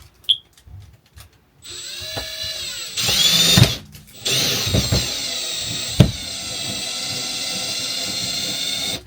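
Drill boring pilot holes through PVC wall sheet into a caravan wall. The motor whine starts about a second and a half in and is louder for a moment around three seconds. It stops briefly near four seconds, then runs steadily again until just before the end, with one sharp click about six seconds in.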